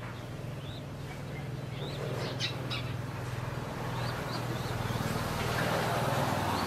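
Birds chirping in short, rising high notes scattered throughout, over a steady low hum; a rushing noise builds and grows louder in the second half.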